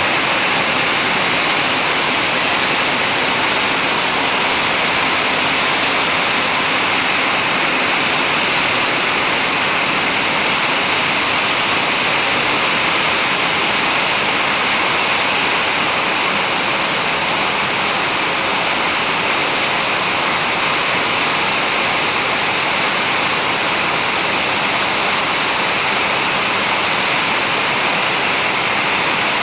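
Dassault-Dornier Alpha Jet turbofan engines running loud and steady, with a high turbine whine that rises over the first few seconds and then holds at one pitch.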